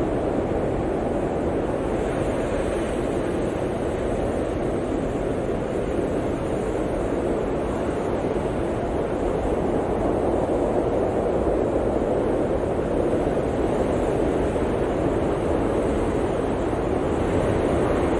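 Blizzard wind blowing steadily, a deep rushing noise that swells and eases slowly and grows a little louder in the second half.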